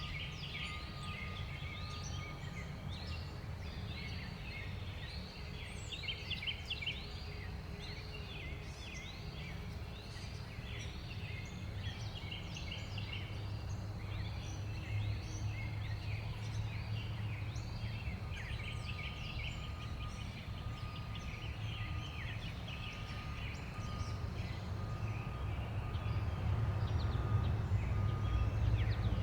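A flock of small backyard songbirds chirping and chattering at once, many short calls overlapping, over a low steady rumble.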